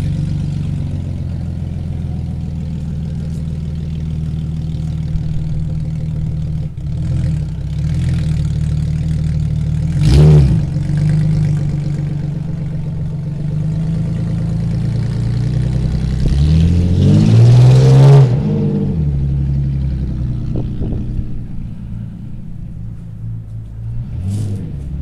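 A car engine running steadily at close range. About ten seconds in there is a brief loud sound. Later the engine revs up and falls back once, which is the loudest part.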